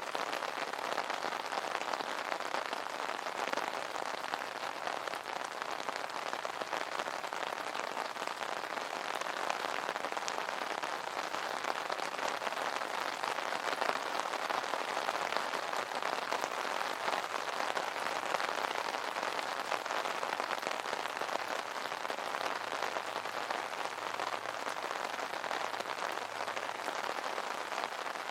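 Steady rain drumming on an umbrella's fabric canopy, a dense, even patter of drops.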